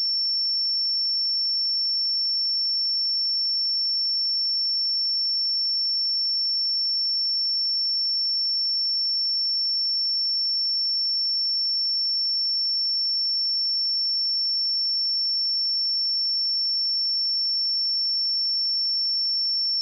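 A pure 5425 Hz sine-wave test tone, one steady high-pitched tone held at constant level.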